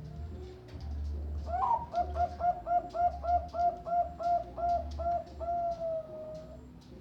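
Zebra dove (perkutut Bangkok) cooing its song: a quick run of about a dozen short, clipped coos, then one long drawn-out closing note.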